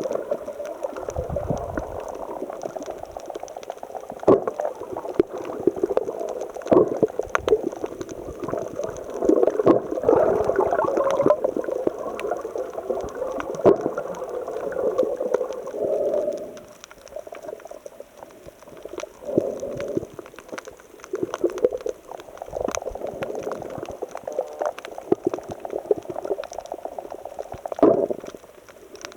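Sea water surging and gurgling among shoreline rocks, with bubbling and many small clicks, in uneven surges. It is busiest in the first half and settles into separate washes after about sixteen seconds.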